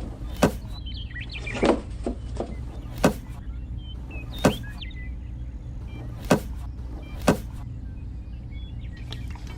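A small electric motor hums steadily, with six sharp knocks or clacks at irregular intervals over it.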